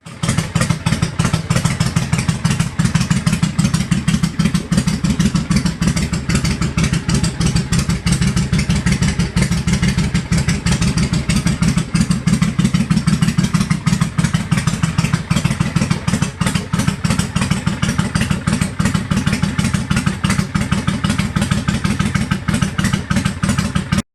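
2004 Suzuki VL800's water-cooled V-twin engine idling steadily while it warms up, loud, with an even run of exhaust pulses.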